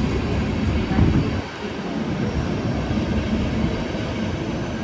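Departing passenger train rolling along the platform with a steady low rumble of wheels and coaches, and a brief louder knock about a second in.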